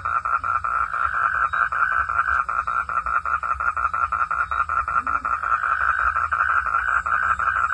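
Frogs calling in a steady chorus, a fast, even train of pulses that runs on without a break.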